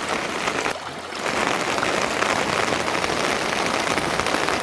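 Steady rain falling on a surface, a dense patter of drops. It drops away briefly just under a second in, then resumes at full strength.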